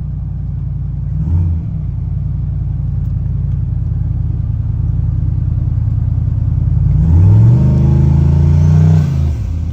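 Cammed twin-turbo LS V8 running with the exhaust cutout open, a steady drone with a short rev blip about a second in. About seven seconds in it pulls hard: the revs climb for about two seconds, then drop off sharply.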